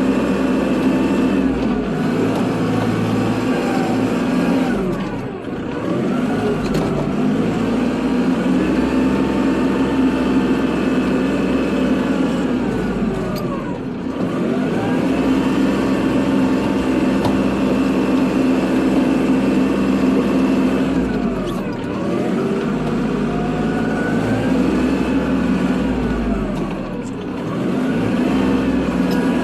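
Kubota tractor's diesel engine running steadily at working revs while plowing snow. Its pitch sags briefly and climbs back about every eight seconds, four times, as the load on the engine changes.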